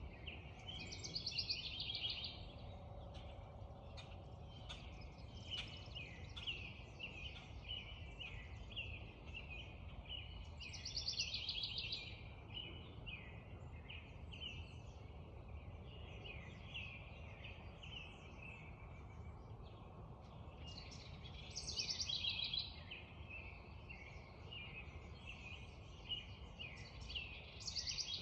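Several wild birds singing in a spring dawn chorus: a steady run of short chirps, with a louder, fast-trilled song phrase coming in about every ten seconds. A low steady rumble underneath.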